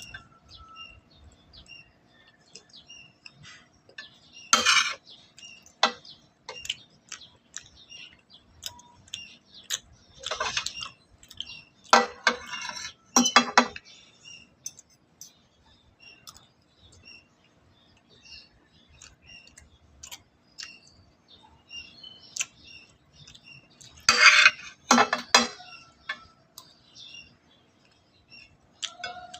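Cutlery clinking and scraping against dishes while eating, in scattered small clicks with a few louder clatters about 4 seconds in, around 10 to 13 seconds, and near 24 seconds.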